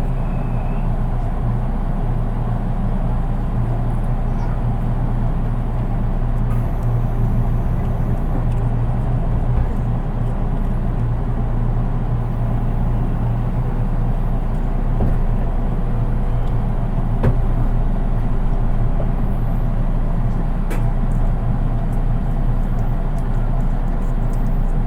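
Running sound inside a JR East 183 series DC limited-express electric train, heard in the unpowered KuHa 183 driving trailer car. It is a steady rumble of wheels on rail with a low hum and a few faint clicks.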